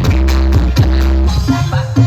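Loud, bass-heavy electronic dance music blasting from a 'sound horeg' truck-mounted loudspeaker system. Long low bass notes repeat in a steady pattern, then break into shorter, choppier bass hits just over a second in.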